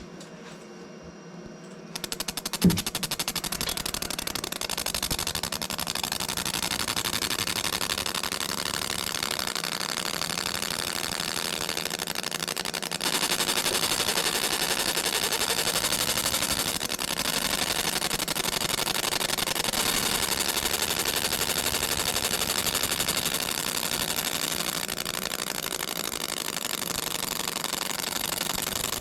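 A machine starts about two seconds in and runs with a fast, even rattle, with a single sharp knock just after it starts and a slight rise in level partway through.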